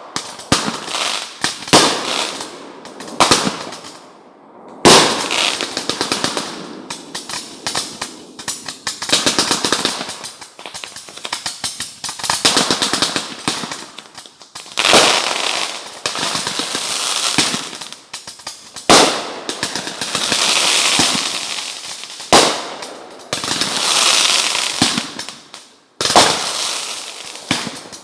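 Fireworks going off in a rapid string of bangs and dense crackling. Louder single bangs come every few seconds, with thick crackling stretches between them.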